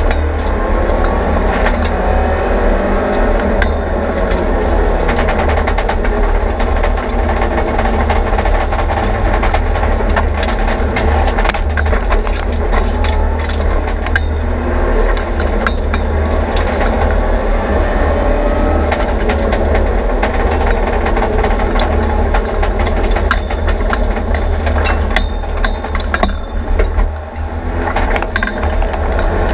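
Mitsubishi Lancer Evolution X's turbocharged four-cylinder engine heard from inside the stripped, roll-caged cabin, revving up and down through the gears under hard driving over a heavy low rumble. Frequent sharp cracks and rattles run through it, and the engine eases off briefly near the end.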